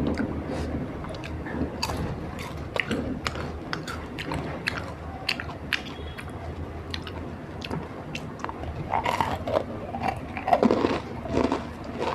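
Close-up crunching and chewing of khakra, a thin, crisp Gujarati flatbread cracker: many short, sharp crunches, coming thicker and louder in the second half.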